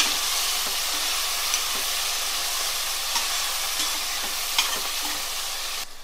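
Onions, green chillies and tomatoes sizzling in hot oil in an aluminium pressure cooker, stirred with a metal spatula that scrapes and ticks against the pan now and then. The sizzle stops suddenly near the end.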